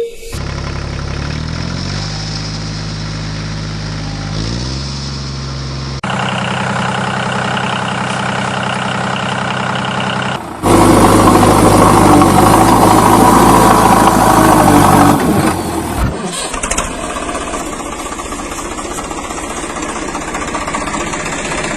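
An engine running and revving, its pitch stepping up and down, in several stretches that cut abruptly from one to the next. The loudest stretch comes in the middle.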